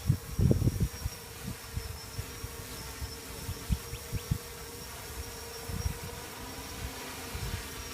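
DJI F450 quadcopter with 980 kV T-Motor motors and 10x4.5 propellers flying with a steady buzz. Gusts of wind rumble on the microphone, the strongest about half a second in.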